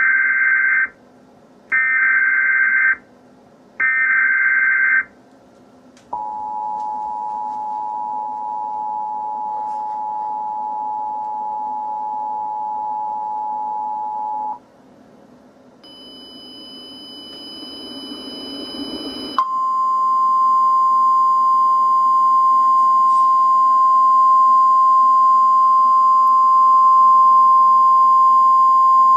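Emergency Alert System broadcast tones. Three short data bursts of the alert header, then the steady two-tone attention signal for about eight seconds. About five seconds later a single steady alert tone begins and holds to the end.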